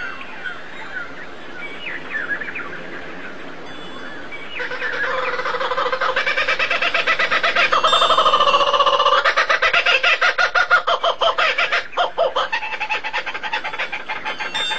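Birds calling: quick falling chirps for the first few seconds, then a louder, long pitched call from about five seconds in that breaks into rapid pulses and fades after about twelve seconds.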